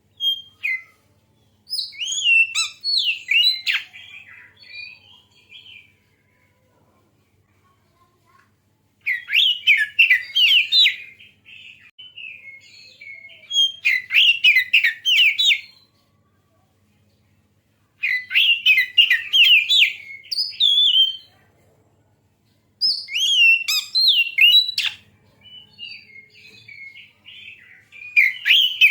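Oriental magpie-robin (kacer) singing: bursts of rapid, varied whistled and chattering notes, each one to four seconds long, separated by short silent pauses.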